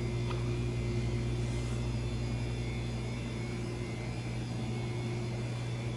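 Steady electrical hum of refrigeration equipment: a constant low buzz with a few steady higher tones, unchanging throughout.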